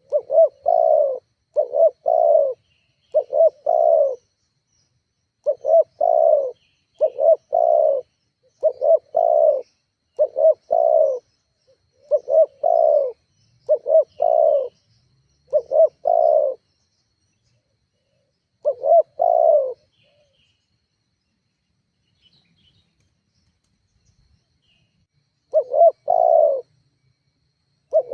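Spotted dove cooing over and over, each phrase a quick group of two or three coos, one phrase about every second and a half. The calls stop for about eight seconds and start again near the end.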